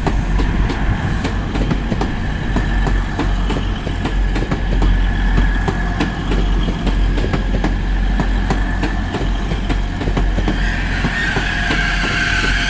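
Class 180 diesel multiple unit running through the station, its engines giving a deep rumble and a steady high whine that grows louder near the end, with a stream of sharp clicks from wheels over rail joints. The sound is harsh enough to be called painful to listen to.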